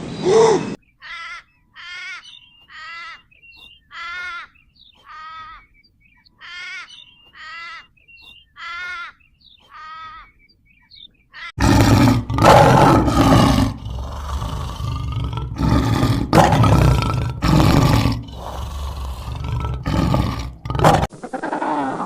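A run of short pitched calls, about one a second, then from about halfway loud, rough roaring and growling from a big cat that cuts off abruptly near the end.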